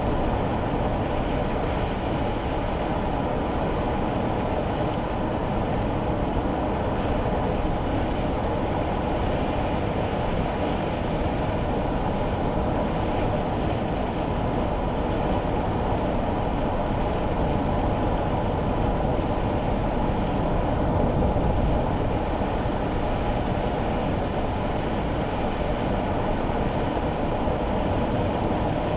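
Steady road and engine noise heard inside a kei car's cabin while driving on wet roads in the rain, a low, even rumble that swells slightly about three quarters of the way through.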